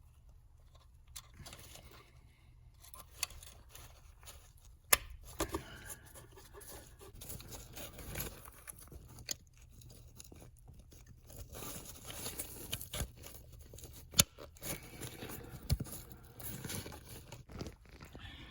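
Irregular clicks, scrapes and rustling from hands working with tools and parts, with two sharper clicks about five seconds in and again near fourteen seconds.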